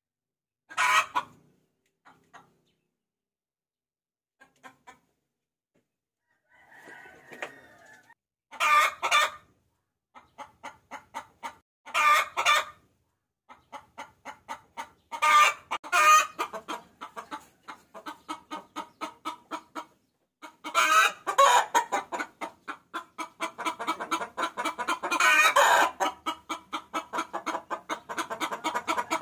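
Hen chicken cackling, a call to draw roosters: a few short calls at first, then loud calls linked by fast runs of clucks at about four a second that become unbroken in the second half.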